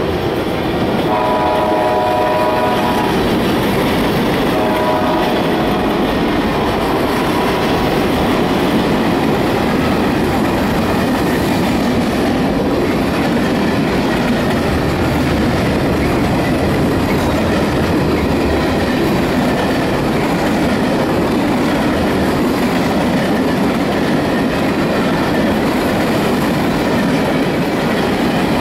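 Freight train cars rolling past close by: a steady rumble and clatter of wheels on the rails. In the first six seconds a multi-chime train horn sounds a long blast and then a short one.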